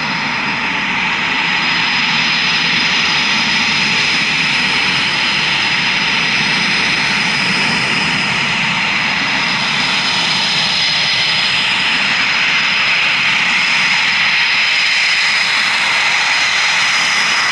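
Eurofighter Typhoon's twin EJ200 turbofan jet engines running: a loud, steady jet roar with a constant high-pitched turbine whine, swelling slightly.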